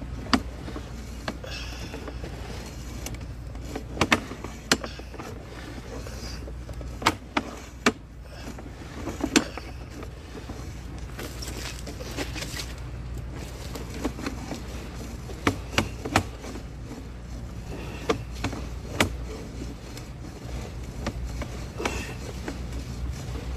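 Steady low machinery hum, with irregular sharp knocks and clicks on top, about twenty of them over the stretch.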